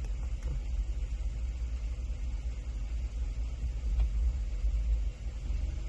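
Hyundai Sonata's 2.4-litre four-cylinder engine idling with a steady rumble, the engine knock (tapping) starting up again at idle. The owner finds the knock grows at idle and in park once the engine has run a while, and fades once it revs.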